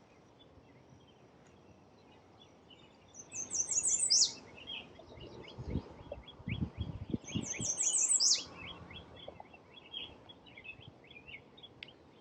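Redstart singing twice, each song a quick run of high thin notes ending in a sharp downslurred note, with other small birds chirping throughout. A few low thumps come between the two songs.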